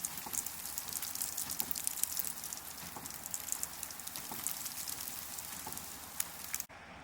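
Dense, steady crackling patter of precipitation striking a surface, made of many tiny ticks. It cuts off suddenly near the end.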